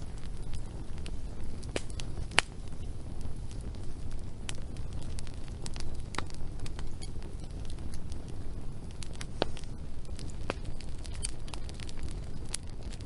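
Wood fire burning, with scattered crackles and sharp pops over a steady low rumble; one loud pop about two seconds in.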